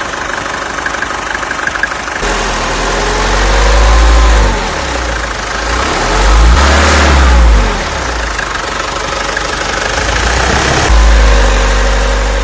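Mercedes OM 604 four-cylinder diesel engine running and being revved up and back down a few times.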